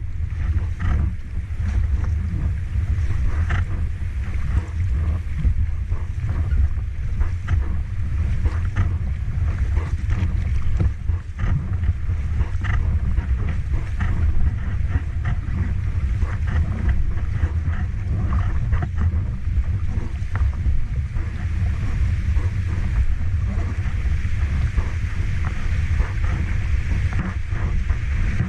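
Large waterfall pouring, a steady rush of falling water with a deep, constant rumble underneath.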